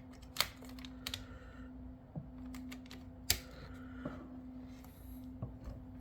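A few light, sharp clicks and taps of a small plastic HO-scale model box car being handled against a coupler height gauge on the track, over a faint steady hum.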